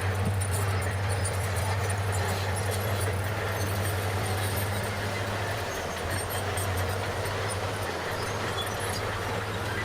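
Bulldozer's diesel engine running steadily, a constant low hum under a broad rattling noise.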